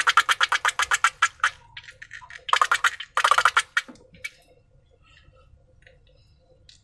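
Wet clicking and squelching from slime being worked, a fast run of about ten clicks a second that dies away after about a second and a half, then two short squelching bursts about three seconds in.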